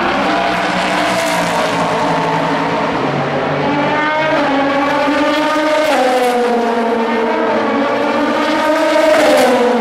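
Endurance racing cars' engines running at speed past the track. Their pitch climbs and falls as they pass and change gear, with a marked drop about six seconds in, and it is loudest near the end.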